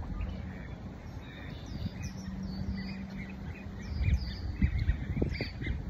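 Small birds chirping: a string of short, high chirps, some sliding down in pitch, growing busier near the end, over a low wind rumble on the microphone.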